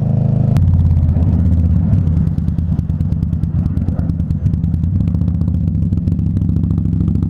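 Indian Scout Bobber's V-twin engine running as the bike rides through traffic. About half a second in there is a sharp click, and the engine note drops to a lower, steady pitch.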